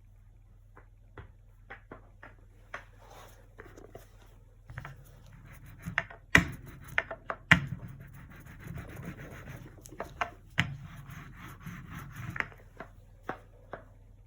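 Painting tools working acrylic paint on a canvas: rubbing and scratching strokes with scattered light taps and clicks, and two sharper knocks at about six and a half and seven and a half seconds in.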